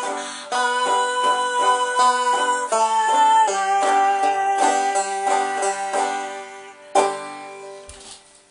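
Five-string banjo played clawhammer style, a steady run of picked notes, ending with one strummed chord about seven seconds in that rings and fades out.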